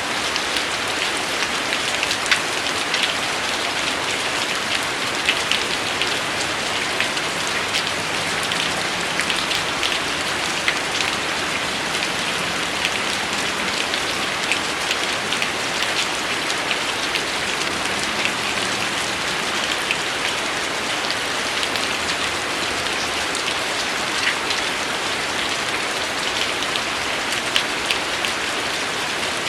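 Steady rain falling, an even hiss with frequent sharp ticks of single drops hitting a surface.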